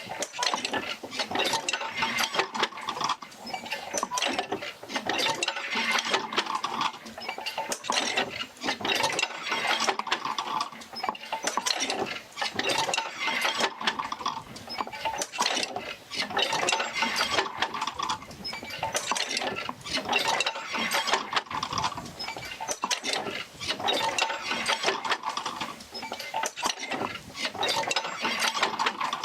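Oil-field field wheel and its jerker lines working back and forth, a rhythmic mechanical clatter of many clicks and clanks that swells in a regular cycle about every four seconds.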